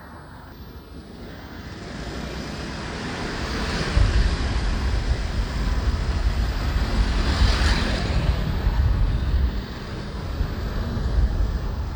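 Wind rumbling on the microphone over road and traffic noise from a moving motorbike. It grows much louder about four seconds in, with a brief swell of noise near the middle as something passes.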